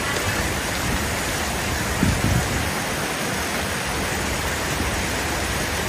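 Steady rushing wash of heavy rain and street traffic, with a brief low rumble about two seconds in.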